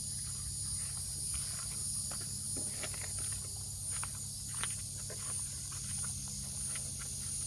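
Outdoor ambience dominated by insects trilling in a steady high-pitched drone that pulses about once a second, over a steady low hum, with scattered faint short chirps or clicks.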